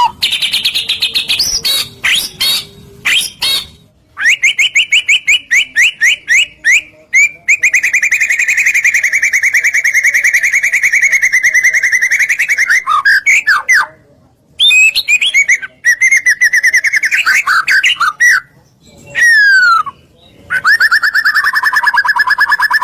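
White-rumped shama (murai batu) singing in long, fast trills of rapidly repeated notes, broken by a few brief pauses, with some quick falling whistles late on.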